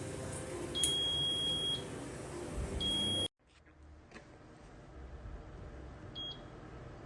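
Air fryer control panel beeping: a long beep about a second in and a shorter one near three seconds, over a steady hum. The sound then cuts off suddenly, and one brief beep comes near the end.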